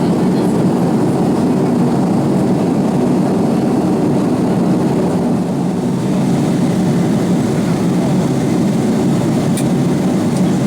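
Steady in-flight cabin noise of an Avro RJ85 airliner: an even rumble of its four turbofan engines and the airflow over the fuselage, unchanging in level.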